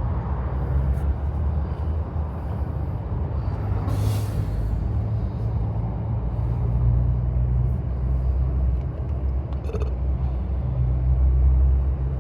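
Steady low rumble, with a short hiss about four seconds in and a few faint clicks near the end.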